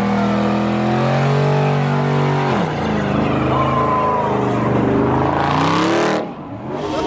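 Car engine held at high revs during a burnout; the revs drop sharply about two and a half seconds in, then climb again over a hiss of spinning tyres. The sound falls away suddenly near the end.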